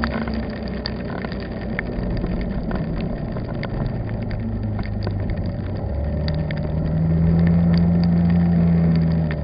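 Vehicle driving in heavy rain: steady engine and road rumble with scattered sharp taps, typical of raindrops hitting the car. About six seconds in the engine note rises into a steady drone that holds for about three seconds, then falls back.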